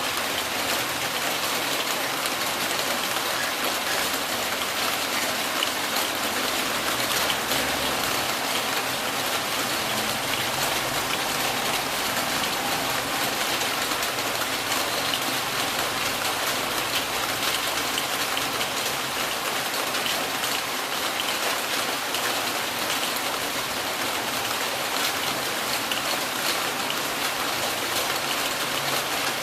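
Steady heavy rain falling and pattering on surfaces, a dense even hiss with many small drop impacts.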